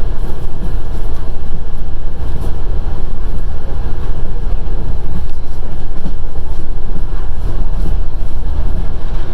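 Passenger train running along the track: a loud, steady low rumble of wheels on rails, with wind buffeting the microphone.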